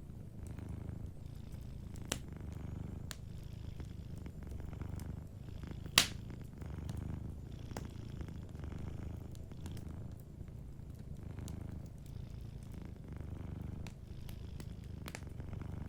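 Domestic cat purring low and steadily, swelling and easing, over a wood fire that gives a few sharp crackling pops, the loudest about six seconds in.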